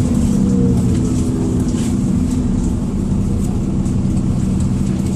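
Engine of a Dennis Trident II / Enviro400 double-decker bus running steadily under way, a loud low drone heard from inside the bus, with a faint thin high-pitched line above it.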